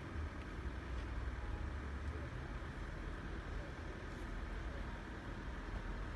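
Steady low rumble of road vehicles with their engines running.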